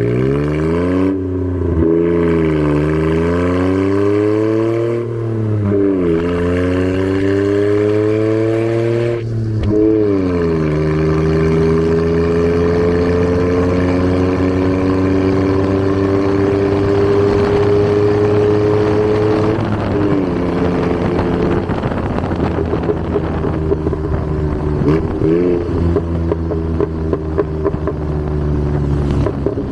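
Daihatsu Hijet kei truck's three-cylinder engine, breathing through a custom intake and a motorcycle muffler, pulling through the gears under load. The engine note climbs and drops with each shift over the first ten seconds, then climbs slowly in one long pull, falls off near the middle, and wavers before rising again near the end.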